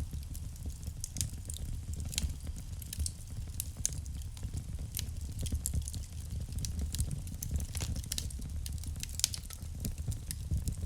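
Wood fire burning in a fireplace, with frequent irregular crackles and sharp pops over a steady low rumble of the flames.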